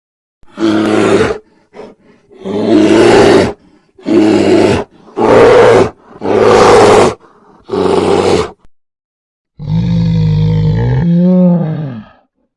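A big cat roaring: six rough roars of about a second each, followed near the end by a longer, more tuneful call whose pitch bends toward its close.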